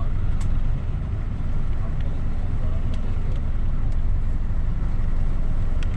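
Small bus driving uphill, heard from inside the cabin: a steady low rumble of engine and road noise with a few faint clicks.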